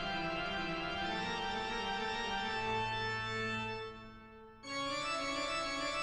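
Background music of sustained organ chords. It dies away a little past four seconds in and starts again abruptly about half a second later.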